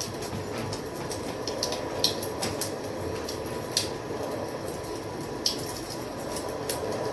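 Wood fire crackling: a steady hiss with irregular sharp pops and snaps, the loudest about two seconds in, near four seconds and about five and a half seconds in.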